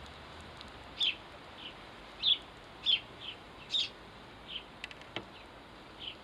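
House sparrows chirping: short, sharp chirps repeated about once every half second to a second. A few faint clicks come near the end.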